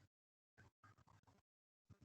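Near silence, broken by a few very faint, short snatches of low voice-like murmur.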